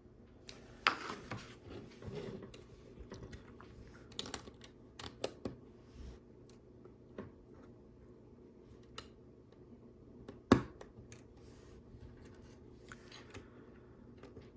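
Quiet handling sounds of fingers working small Lego pieces and a sticker sheet: scattered light clicks, taps and scratches, with one sharper plastic click about ten and a half seconds in.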